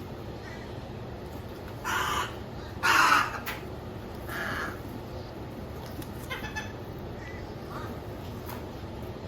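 A wild bird gives three short, harsh calls, roughly a second apart; the middle call is the loudest.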